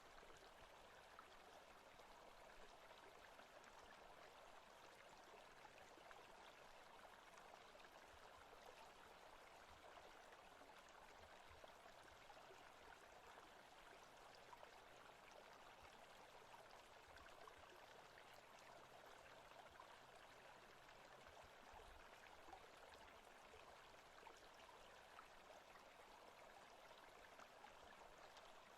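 Faint, steady rushing of running water from a forest ambience track.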